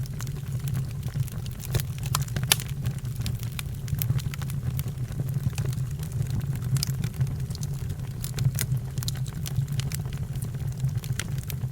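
Wood fire burning: a steady low rumble with irregular crackles and pops.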